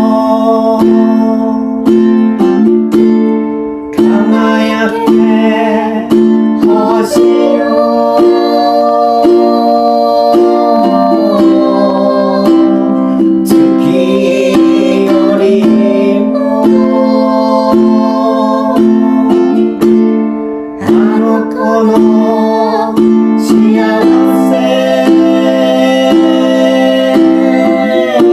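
Music: a ukulele strummed in a steady, even rhythm, with a held melody line over it.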